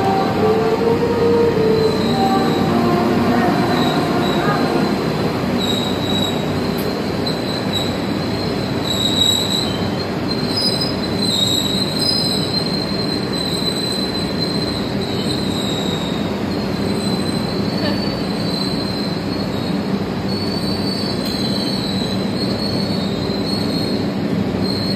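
Passenger train coaches rolling slowly past at close range as the train comes into the station, with a steady rumble of wheels on the rails. From about five seconds in, a high, wavering wheel squeal joins it and carries on.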